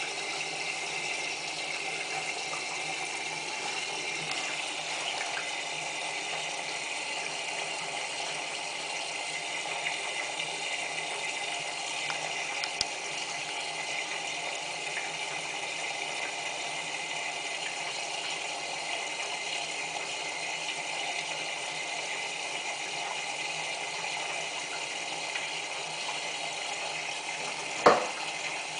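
Whirlpool AWM4066 front-loading washing machine taking in water for the final rinse: a steady hiss of water flowing into the machine, with one sharp knock near the end.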